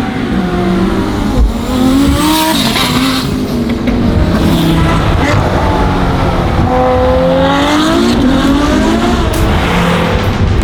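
High-performance car engines revving and accelerating, their pitch repeatedly climbing and dropping as they run through the gears.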